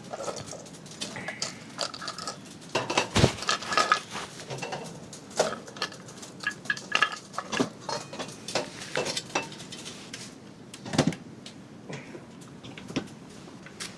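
Pots, dishes and metal cutlery clinking and knocking irregularly as food is handled, with a few louder knocks and short ringing clinks.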